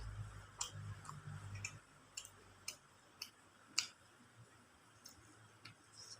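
Close-up eating sounds: irregular sharp, wet clicks of a mouth chewing chicken biryani, about nine of them, the loudest near four seconds in.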